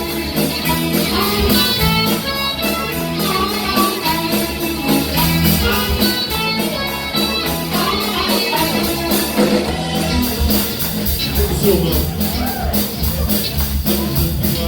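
Live band playing a song with a steady drum beat, bass and guitar, with a voice or lead instrument carrying the melody.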